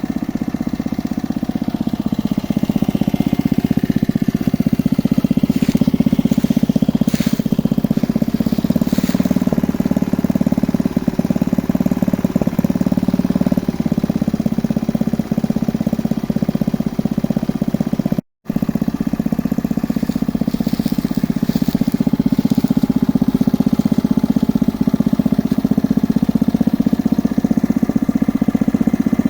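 Engine of a geological exploration drilling rig running steadily with a low hum, cutting out for an instant about two-thirds of the way through.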